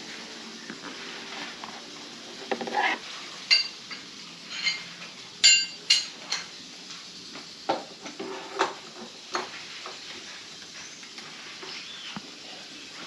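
Metal tools and parts being handled: scattered clinks and knocks, a few of them ringing briefly like struck steel.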